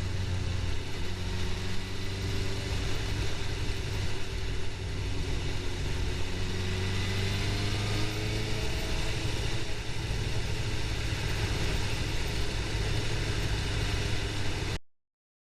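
Suzuki GSX-R750 inline-four engine running at a steady cruise, its pitch rising and falling gently, under a constant rush of wind and road noise. The sound cuts off abruptly near the end.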